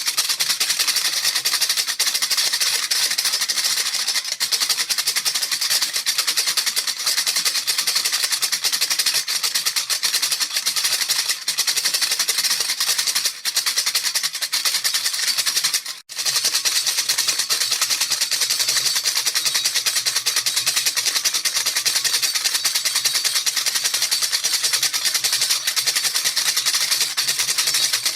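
Baby rattle shaken fast and without pause, a dense, steady rattle of its beads, breaking off for a moment about halfway through before going on.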